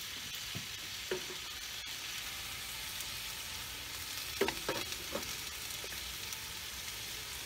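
Sliced potatoes and shaved steak with peppers and onions sizzling steadily on a Blackstone flat-top griddle. A few brief sharper sounds rise over the sizzle about a second in and again around four and a half to five seconds in.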